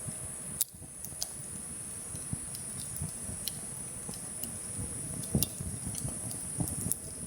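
Steady high-pitched buzzing of summer insects, with scattered small clicks and light knocks over it.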